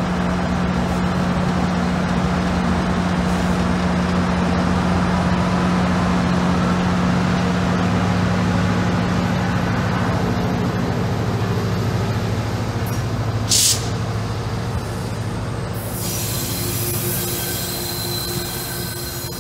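GO Transit diesel-hauled commuter train passing, its locomotive engine humming steadily under the rumble of the bilevel coaches rolling by. There is a brief sharp hiss about two-thirds of the way through, and from about three-quarters in a thin wheel squeal rises over the rolling.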